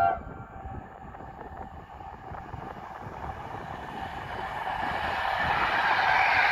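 A train horn cuts off just as the sound begins, then the running noise of an EN57AL electric multiple unit grows steadily louder as it approaches.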